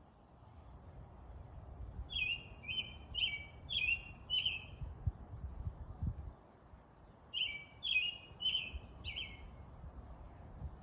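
A bird chirping in two quick series of four or five notes each, with a few faint high peeps in between, over a low steady outdoor rumble.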